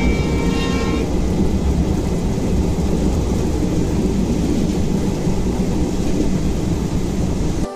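Loud, steady rumble of a train running, with a few steady tones over it in the first second; it cuts off abruptly near the end.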